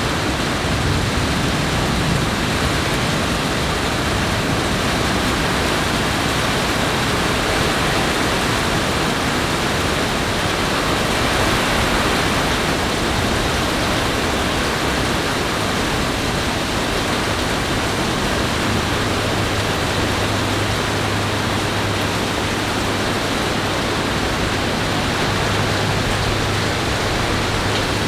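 Heavy thunderstorm rain, a steady, even rush of water with no single impacts standing out. A low steady hum joins about two-thirds of the way in.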